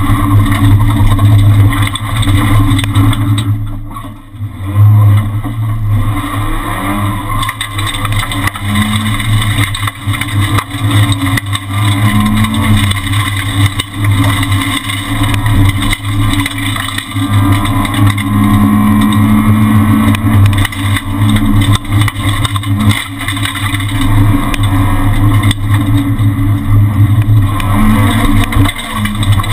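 Renault Twingo R1 rally car's four-cylinder engine heard from inside the cabin, running hard at speed along a rally stage. Its note drops away briefly about four seconds in and comes straight back loud.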